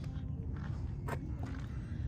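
Footsteps with a sharp click about a second in, over a steady low rumble.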